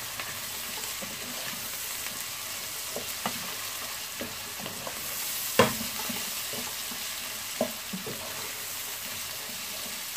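Dried fish, onion and green chillies with ginger-garlic paste sizzling in hot oil in a pot, stirred with a wooden spatula that scrapes and knocks against the pot now and then; the loudest knock comes a little past halfway. The paste is being fried until its raw smell is gone.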